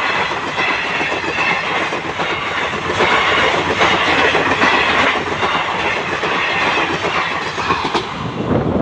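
Express train coaches passing close by at speed: a steady rush of wheels running on the rails, with a few sharp clicks. The noise eases near the end as the last coach goes by.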